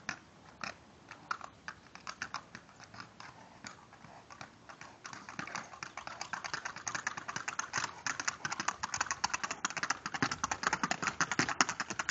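Campfire crackling and popping, rapid irregular snaps that grow thicker and louder about five seconds in.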